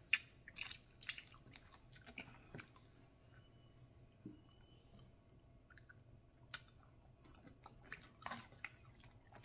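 Close-miked chewing of snow crab meat, with soft wet mouth smacks and scattered small clicks.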